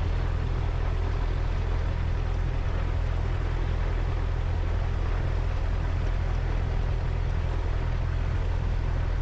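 Cessna 172's four-cylinder piston engine and propeller idling steadily on the ground, a constant low drone heard through the cockpit.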